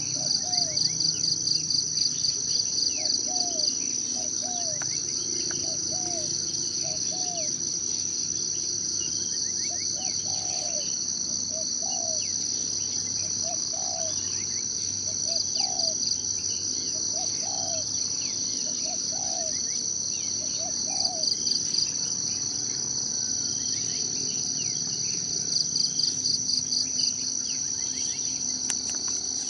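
Forest insect chorus: a steady high-pitched drone that swells into fast pulsing bouts four times. Under it, an animal repeats short low calls about once a second for the first two thirds.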